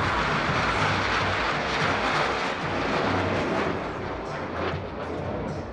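Jet aircraft flying past: a steady jet rush that eases off after about four seconds. The jets are KAI T-50B trainers flown in an aerobatic display.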